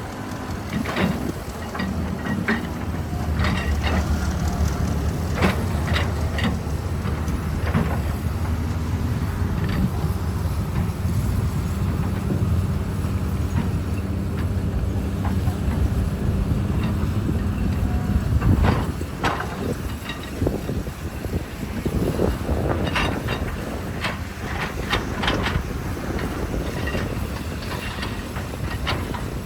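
Heavy diesel earthmoving machine running under load, with repeated sharp clanks and knocks of metal and rock, in clusters near the start and again in the second half.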